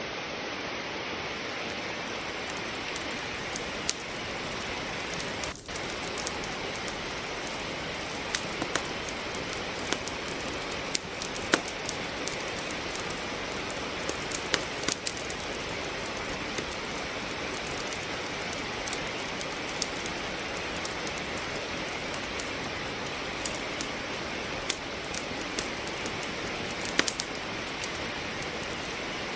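Steady rain with a wood fire crackling in a fireplace: a constant even hiss of rainfall, broken by frequent sharp, irregular pops and snaps from the burning logs.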